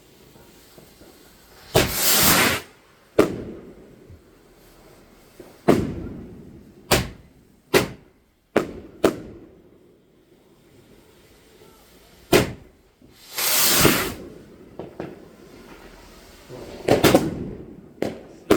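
Fireworks going off: about nine sharp bangs at irregular intervals, each trailing off in an echo, with two longer hissing bursts and a quick cluster of bangs near the end.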